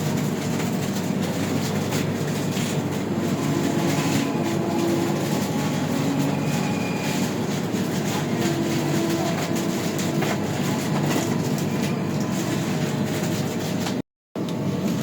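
Passenger train running steadily on the rails: a continuous rumble with many small clicks from the wheels.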